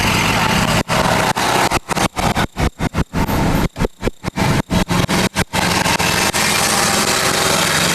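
Army trucks passing, a loud mix of engine and road noise. From about a second in to about five and a half seconds in, the sound keeps cutting out for brief moments, then runs on steadily.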